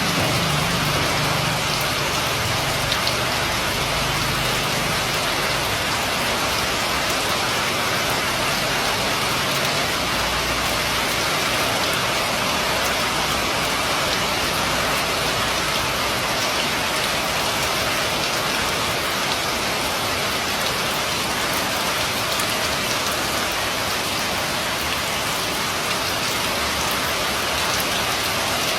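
Steady rain falling on a roof and the street: a constant, even hiss of drops.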